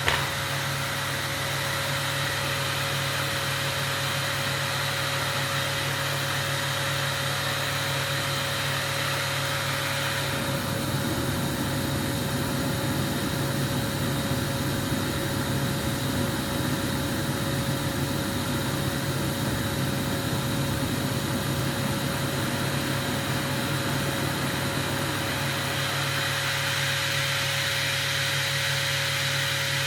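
A machine running with a steady hum and a constant tone; about ten seconds in it turns rougher, settling back near the end.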